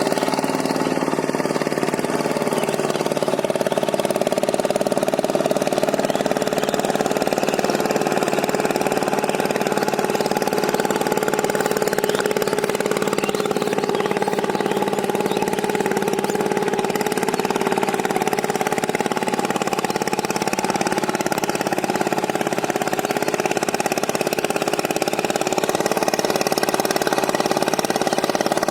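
A power tiller's single-cylinder diesel engine running steadily at an even speed.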